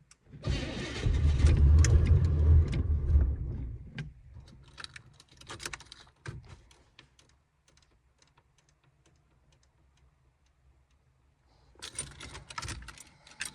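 Car engine cranked on its starter in the cold for about three and a half seconds without catching, a failed cold start. Then keys rattle in the ignition, with another burst of key jangling near the end.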